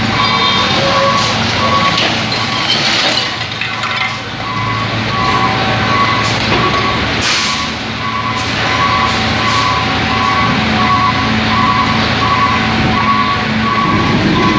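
Heavy vehicle engines running with a back-up alarm beeping in a steady repeating pattern, broken by a few short hissing or clattering bursts.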